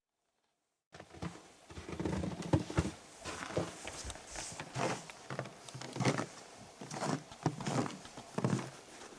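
A run of short, irregular knocks, about one or two a second, starting about a second in.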